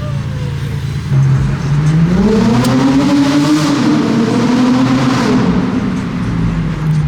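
A car engine revs up: its pitch climbs steadily from about a second in, holds high for a couple of seconds, then drops back down toward idle.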